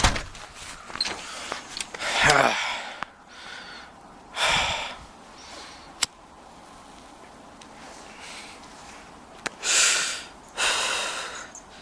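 A person's heavy breaths and sighs, four breathy puffs with one voiced grunt among them, and a couple of sharp clicks in between.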